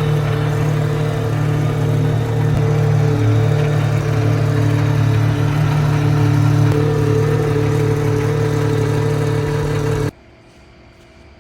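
Pagani Huayra R's V12 engine running steadily at a constant pitch, its exhaust note holding without revving. About ten seconds in the sound cuts off suddenly and falls much quieter.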